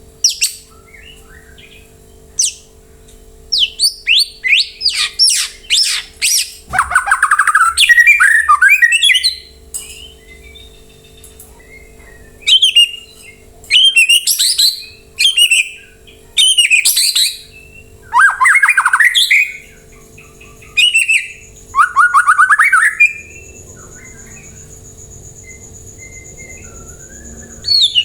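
White-rumped shama (murai batu) singing loud bursts of fast, varied whistled and chattering phrases, broken by pauses of a few seconds, with a long pause near the end.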